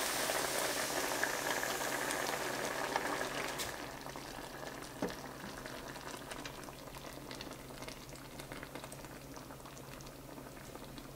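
Minced garlic sizzling in a stainless steel pan, a dense crackling hiss that fades over the first few seconds into a fainter crackle. A single click comes about five seconds in.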